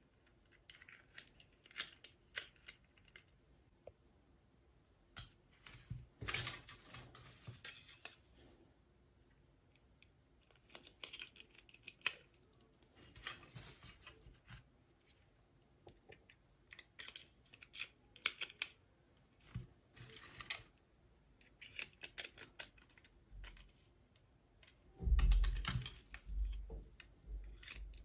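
Hands unwrapping and handling plastic packaging and small plastic toy pieces: irregular bursts of crinkling and light clicking, with a few louder bumps near the end.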